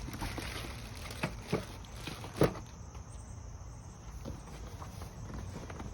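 A few short knocks and bumps from handling the unboxed electric pressure washer and its packaging. The loudest comes about two and a half seconds in, over a steady low background noise.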